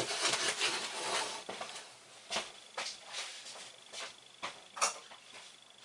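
Drain pipe parts being handled: about a second and a half of rustling and scraping, then a few scattered light clicks and knocks.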